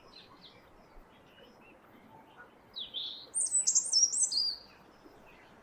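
Dawn-chorus birdsong: one songbird sings a short, loud phrase of high, rapid, falling notes about three seconds in, lasting under two seconds. Faint chirps from other birds come before and after it.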